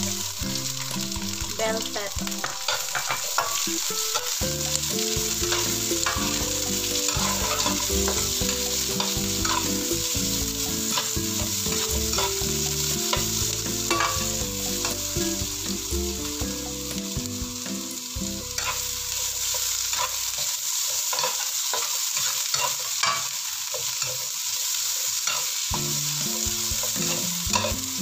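Food sizzling as it fries in a pan and is stirred, with a steady sizzle and frequent short scrapes and taps of a spatula against the pan.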